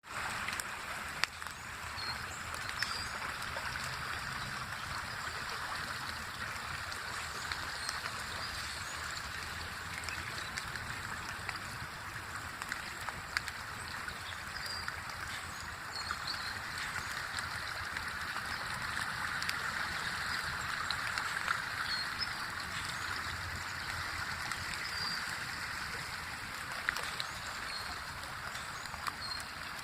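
Floodwater of a swollen creek rushing steadily, with a sharp tap about a second in.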